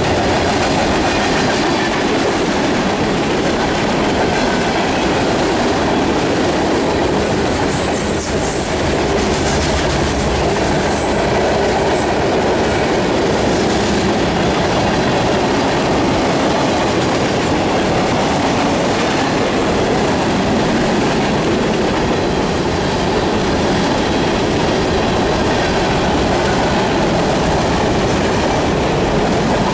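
Railroad cars rolling past at close range: a steady, loud rumble and clatter of steel wheels on the rails, with a faint high wheel squeal now and then.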